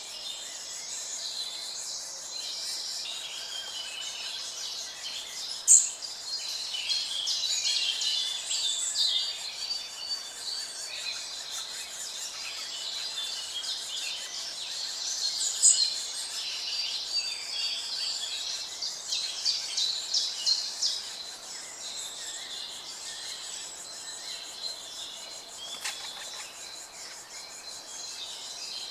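Birds chirping and calling in quick, high notes, busiest through the middle stretch, with two short sharp sounds about six and sixteen seconds in.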